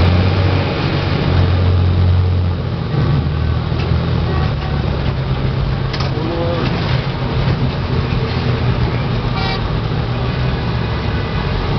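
Steady rumble of a moving San Joaquin passenger train heard from inside the coach, with a deep hum that eases slightly after about two and a half seconds.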